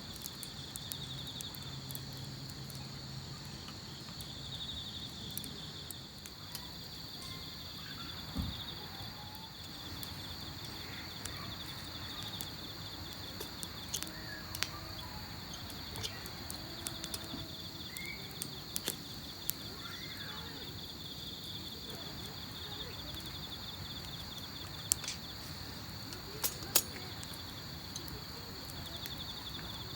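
Insects chirping steadily in high, pulsing trills, with scattered sharp clicks and a few louder ticks near the end.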